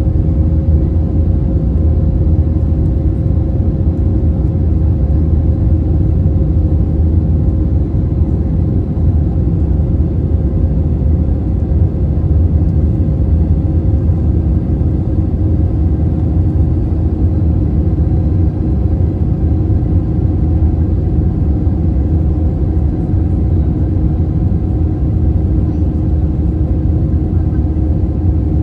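Steady cabin noise of an Airbus A321-231 in flight: the IAE V2500 turbofans and the airflow make a low drone, with a couple of faint steady hums over it.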